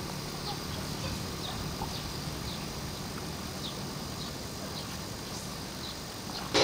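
A small bird chirping: short, high, falling chirps about twice a second over a steady outdoor hiss.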